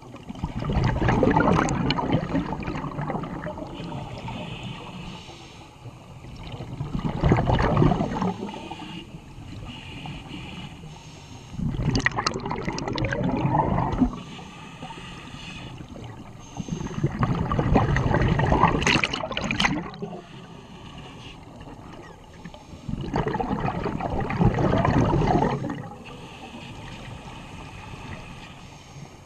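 Scuba diver breathing through a regulator underwater: exhaled air bubbles out in a loud gurgling gush about every five to six seconds, five times, with quieter stretches between breaths.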